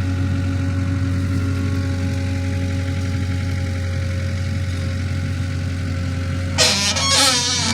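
Engine of a fork-carrying machine running steadily at idle, with a brief louder sound of shifting pitch near the end.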